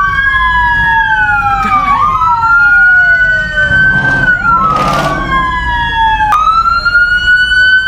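Several police sirens wailing at once, each rising and falling out of step with the others, over a steady low rumble. A short burst of hiss comes about four seconds in.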